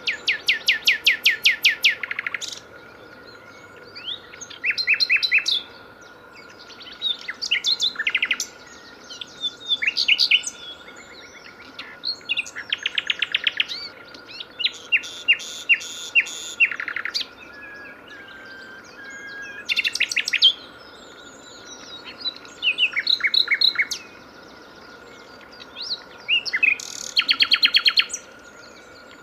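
A songbird singing loud, varied phrases of rapid repeated notes, about nine phrases each one to two seconds long, with short pauses between them.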